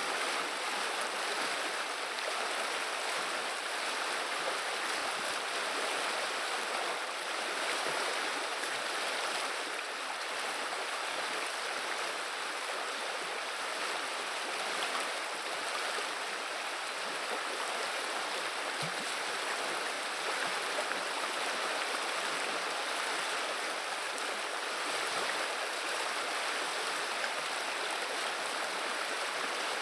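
River water flowing: a steady, even rush of the current.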